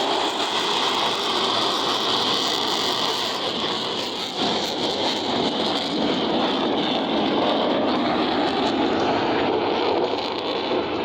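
Steady jet noise from Blue Angels F/A-18 Super Hornets in flight. Its highest hiss dies away about six seconds in, and the lower noise carries on.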